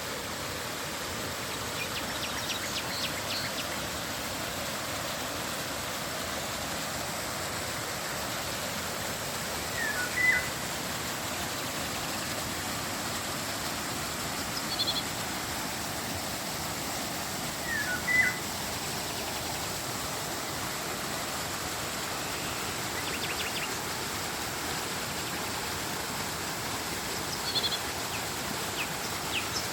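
River water flowing with a steady rush, with birds giving short chirps every several seconds over it.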